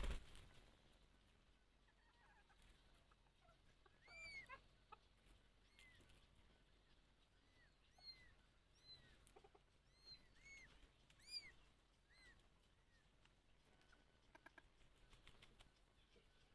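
Chicks peeping faintly: about a dozen short, high, arched peeps at irregular intervals, with a brief bump at the very start.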